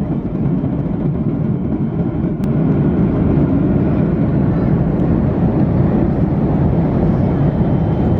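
Steady low rumble of cabin noise inside a Boeing 737-800 airliner, from its jet engines and the air rushing past, rising slightly in level about 3 seconds in.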